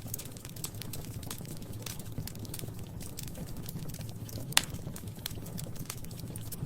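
Wood fire crackling in a fireplace: irregular small snaps and ticks over a low steady rumble, with one sharp loud pop about four and a half seconds in.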